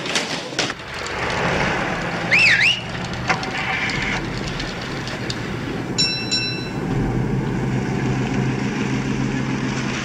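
A car engine runs steadily, with a short rising-and-falling chirp about two seconds in and two quick bell dings about six seconds in.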